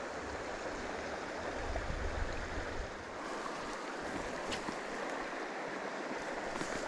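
A shallow stream running steadily, with a low rumble underneath through the first three seconds.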